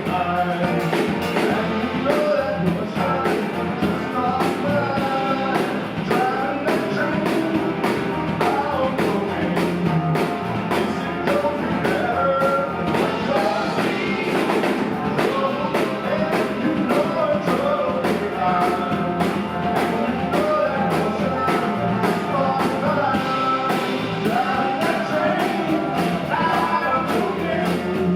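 Live rock band playing a jam, with a winding lead guitar line over a steady drum beat.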